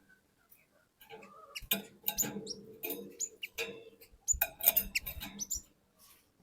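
Cinereous tit (glatik batu) calling and chattering: a quick run of short, high, sliding notes mixed with scratchy clicks, busiest through the middle, with a few low thuds along with it.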